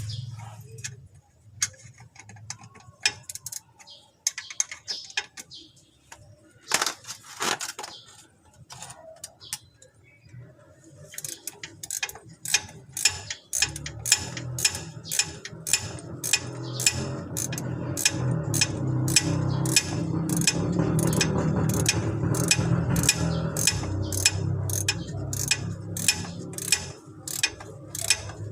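Ratchet wrench clicking as a bolt is turned: a few scattered clicks and knocks at first, then about halfway in a steady run of clicks, two to three a second, over a low hum.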